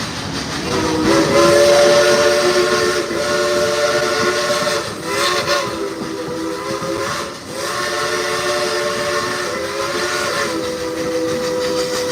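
Chime steam whistle of narrow-gauge 2-8-2 Mikado steam locomotive No. 192 (Baldwin, 1943) blowing a chord of several tones in a run of long blasts with brief breaks, starting about a second in. Steam hiss and train running noise go on underneath.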